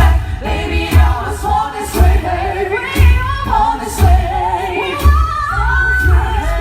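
A cappella group singing a pop song in harmony, with vocal percussion thumping a beat about once a second.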